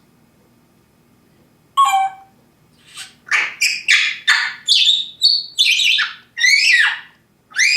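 African grey parrot calling: a short falling squawk about two seconds in, then a quick run of loud rising and falling whistles lasting about four seconds, and one more near the end.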